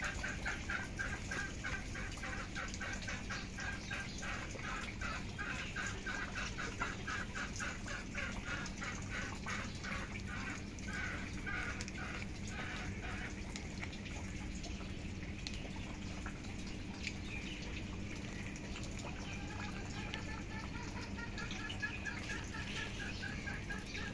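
A bird or fowl calling in a fast run of short repeated notes, about four a second, which fades out about halfway and starts again a few seconds before the end.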